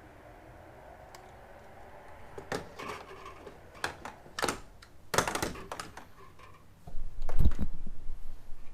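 Handling noise: several sharp clicks and knocks, then a loud low rumble for about a second near the end.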